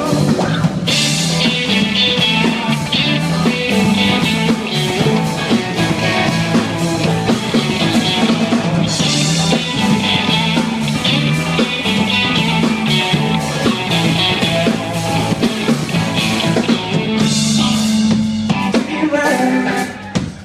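A rock band playing live, an instrumental stretch between vocal lines, with a drum kit and its cymbals over guitars. The band drops out briefly near the end.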